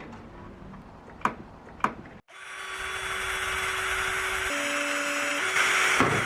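A small electric power tool running with a loud, even rush of noise and a steady motor tone that shifts pitch twice before it cuts off; before it, two sharp clicks.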